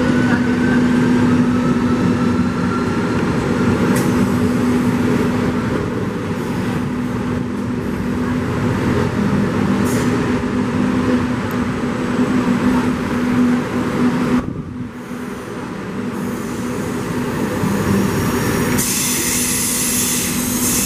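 Electric multiple-unit train running past along the platform, with a steady low hum from its drive and a whine rising in pitch over the first few seconds as it picks up speed. There are a couple of sharp clicks along the way, and a hiss comes in near the end.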